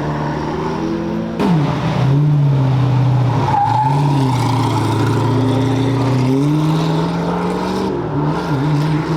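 Car engine pulling away under throttle, its pitch climbing and then dropping sharply about a second and a half in as it shifts, before climbing again near the end.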